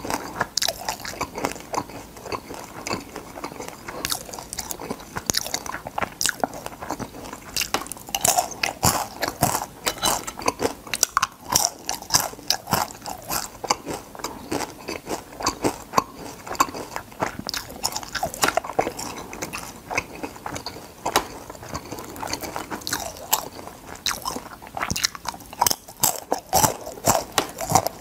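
A person chewing crispy fried crab, shells crunching between the teeth in quick, irregular crunches throughout.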